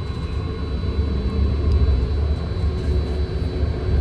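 BART train running, heard from inside the passenger car: a steady, deep rumble from the wheels and running gear with a rushing noise above it as the train gets under way out of the station.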